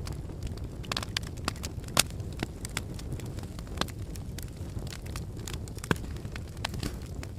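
Volcanic lava crackling and popping irregularly over a steady low rumble.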